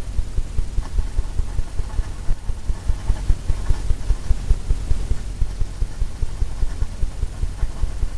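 Bristle paintbrush tapping repeatedly against a canvas, a rapid run of dull low thumps at about four a second, as cloud layers are dabbed into wet oil paint.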